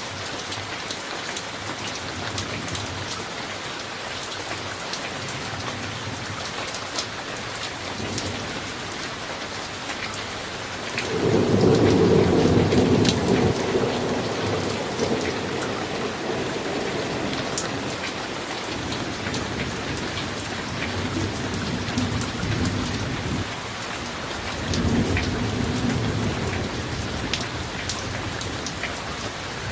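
Steady summer rain falling, with scattered drops ticking close by. About a third of the way in, a loud clap of thunder breaks out suddenly and rolls away over several seconds, and a second, weaker rumble rises near the end.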